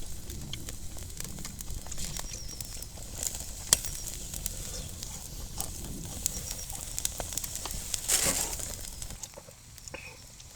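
Wood campfire crackling, with scattered sharp pops over a low steady rumble and one louder pop a little under four seconds in. A short rustling hiss comes about eight seconds in, and the rumble fades near the end.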